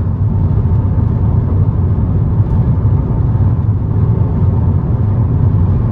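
Steady road and engine rumble of a car driving along at an even speed, with no change in pace.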